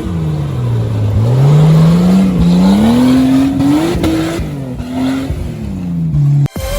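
A vehicle engine revving: its pitch climbs steadily for about three seconds, dips, rises again and then falls away, before cutting off abruptly just before the end.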